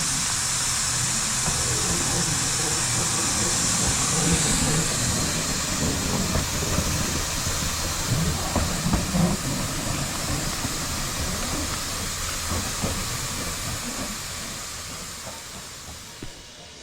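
Narrow-gauge steam locomotive hissing steam steadily, with irregular knocks and clanks about halfway through; the sound fades away near the end.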